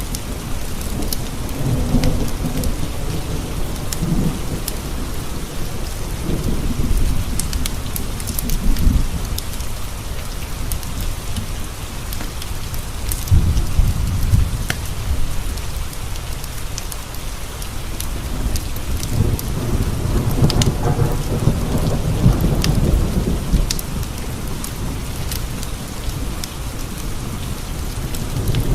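Steady rain with low rolling thunder that swells and fades several times, strongest a little past the middle, over scattered sharp ticks.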